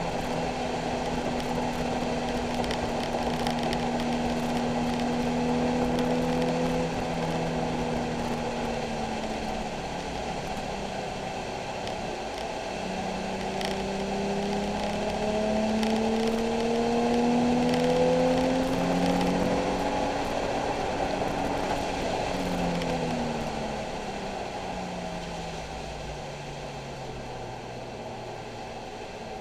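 Nissan 370Z's 3.7-litre V6 engine under way, holding steady revs, easing off, then pulling up through the revs for several seconds before the pitch falls away steadily near the end as the car slows. A steady road hiss runs underneath.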